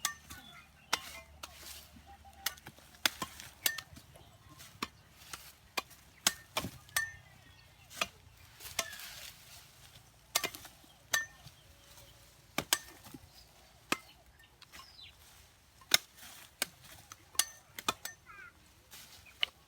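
Irregular sharp chopping knocks, roughly one a second, some louder than others.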